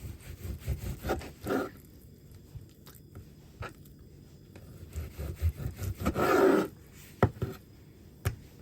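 Knife cutting and scraping on a wooden cutting board: scattered knocks and rubbing, with a longer, louder scrape about six seconds in and a couple of sharp taps near the end.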